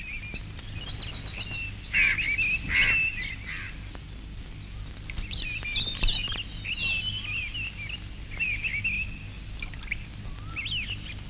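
Birds chirping and twittering in short clusters of quick high calls, over a low steady hum.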